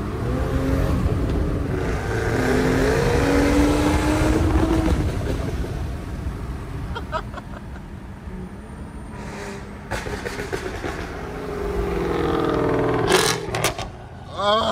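Sports car engine accelerating hard: the engine note climbs for several seconds and fades. It climbs again near the end with a few sharp exhaust pops.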